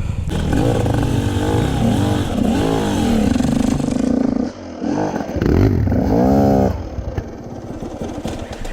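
Motorcycle engine revving up and down several times under changing throttle. The hardest rev comes a little after halfway, then it drops back to lower running.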